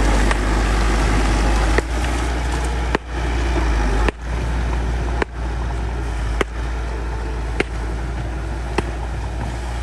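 Bulldozer's diesel engine running steadily, with a sharp click about once every second or so.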